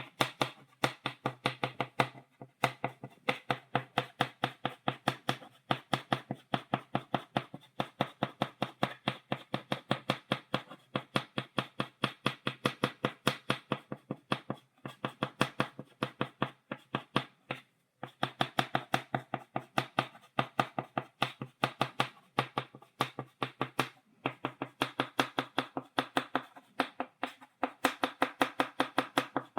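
Chalk tapped rapidly against a blackboard, dotting marks in a quick, even rhythm of about four taps a second, with one brief pause a little past halfway.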